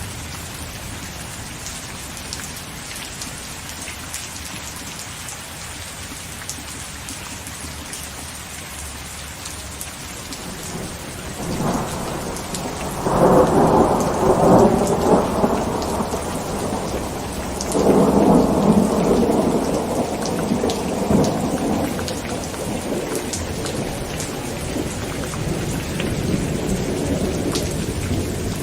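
Heavy rain falling steadily on a tent, with thunder rumbling loudly past the middle in two long peaks before easing back to the rain.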